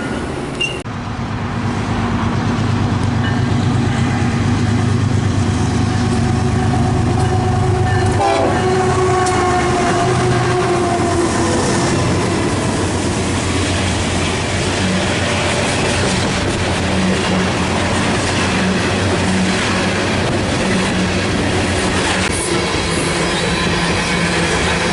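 Diesel-hauled train passing on the line: a steady locomotive engine drone, then a horn for a few seconds about eight seconds in, followed by the rumble and clatter of the cars rolling by.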